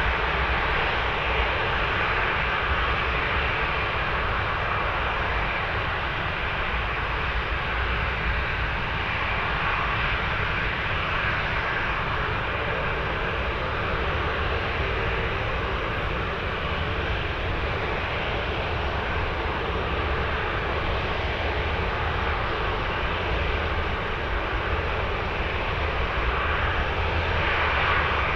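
Large jet airliner's engines heard during a landing: a steady rushing engine noise, with a faint whine around the middle and a slight swell near the end.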